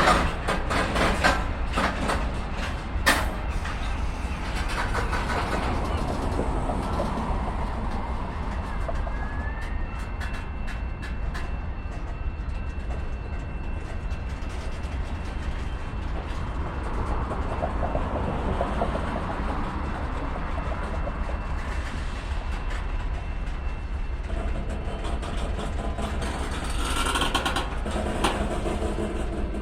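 BNSF freight train's cars rolling slowly past: a steady low rumble with sharp clicks and clanks from the wheels on the rails, loudest in the first few seconds, with one hard knock about three seconds in.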